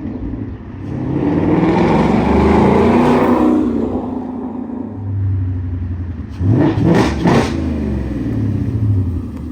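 Ford Mustang GT's 5.0 V8 engine running. It swells louder for a few seconds, then is revved in a few quick blips that rise and fall in pitch, about seven seconds in.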